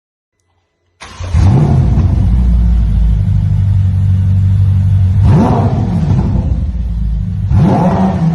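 Ferrari twin-turbo V8 exhaust, said to be straight-piped, cutting in abruptly about a second in and running loud at a low steady burble. It is blipped in revs three times: just after it comes in, about five seconds in and again about seven and a half seconds in.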